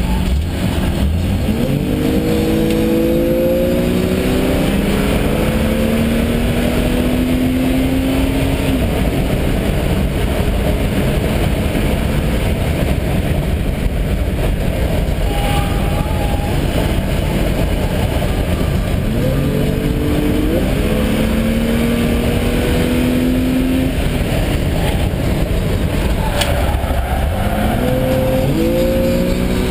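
Jaguar's engine heard from inside the cabin while racing on track, pulling hard and rising in pitch three times: a long pull starting a couple of seconds in, another about twenty seconds in, and a third near the end. Under it runs a constant dense noise of wind and tyres.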